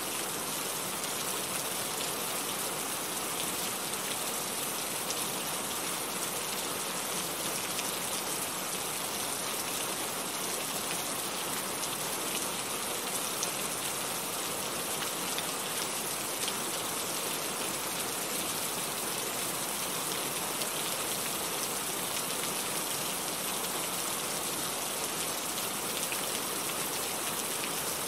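Heavy rain falling steadily, a dense even hiss of drops with fine pattering.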